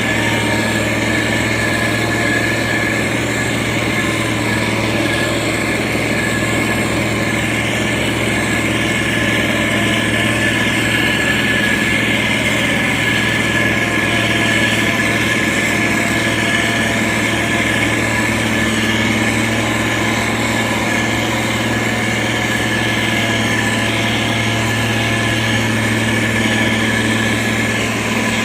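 Diesel engine of heavy road-construction machinery running steadily at an even pitch, with a steady high whine over its low hum.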